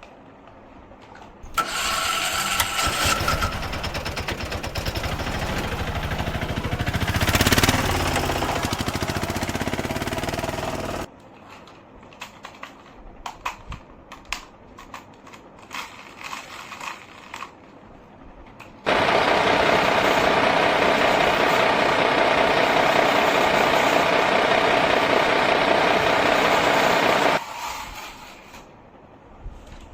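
Engine-like motor noise from toy vehicles in two long stretches, the second very steady. Scattered clicks and light knocks come between them.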